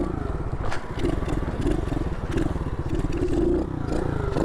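SSR 110cc pit bike's single-cylinder four-stroke engine running steadily with a wavering note.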